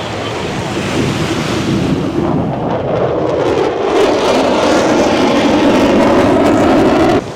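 Wind buffeting the microphone over breaking beach surf, growing louder over several seconds and cutting off abruptly near the end.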